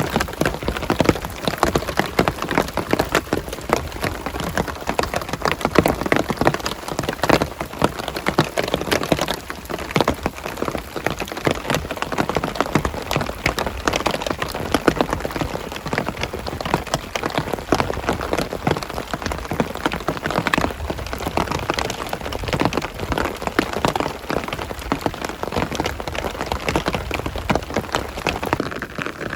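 Heavy rain falling steadily, a dense patter of drops striking a surface close by.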